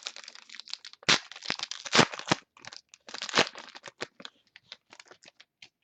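Trading cards being handled and flipped through by hand: an uneven run of short crinkles, rustles and sharp clicks, the loudest about one and two seconds in.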